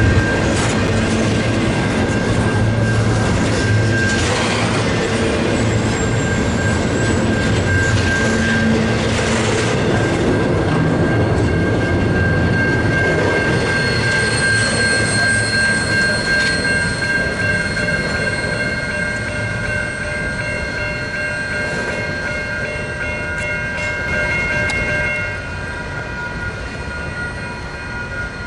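Double-stack container train rolling past: a steady rumble and clatter of wheels on rail, with steady high ringing tones over it. It eases off in the last few seconds.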